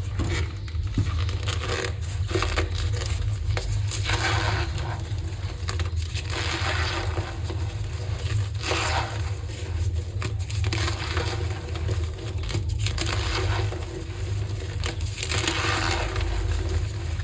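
Green-dyed gym chalk being crushed and crumbled by hand, with a squeaky, crunching sound in repeated squeezes every couple of seconds. A steady low hum runs underneath.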